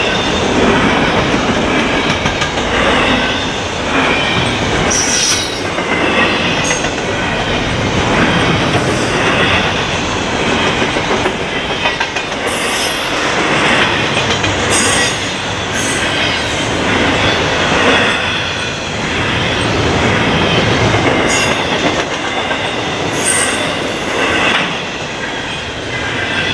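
Double-stack intermodal container cars rolling past in a steady rumble and clatter of wheels on rail, with several brief high wheel squeals over the top.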